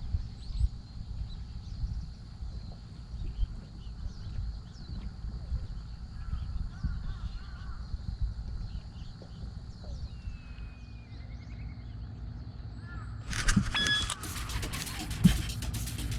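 Outdoor ambience: a steady low rumble of wind on the microphone, with faint bird calls, crows among them. About three seconds before the end, a run of sharp knocks and clattering starts.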